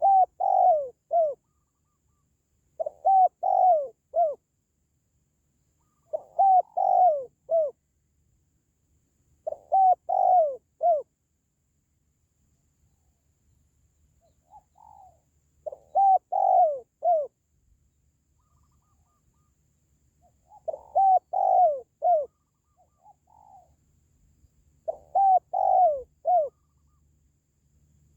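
Spotted dove cooing: seven phrases of three or four quick coos each, every note falling in pitch, the phrases a few seconds apart with a longer pause in the middle.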